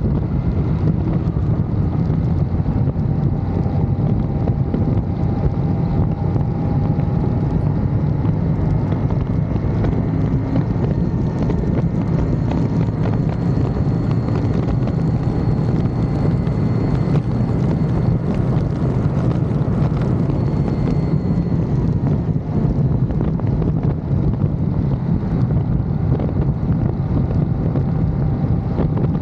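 Wind buffeting the microphone while riding a motorcycle at steady speed, with the engine running evenly underneath.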